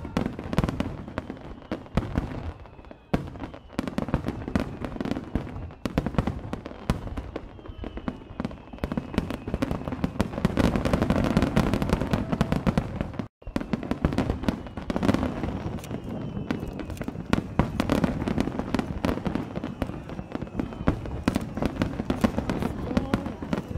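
A rapid, dense barrage of aerial firework shells bursting in the night sky, with overlapping bangs one after another, as in a fireworks finale. The sound cuts out for an instant about halfway through.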